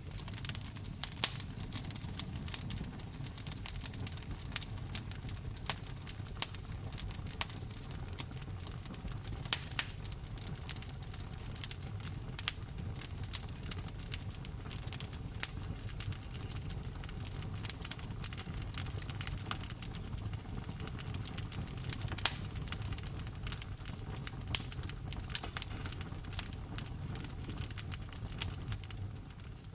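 Wood fire burning in a fireplace: irregular sharp snaps and pops of the burning wood over a steady low rumble of the flames, a few pops much louder than the rest. The sound starts to fade out at the very end.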